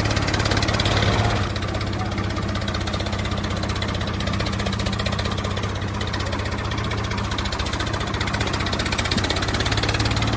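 Tractor engine running steadily at idle with an even, rapid chugging, easing a little about a second and a half in.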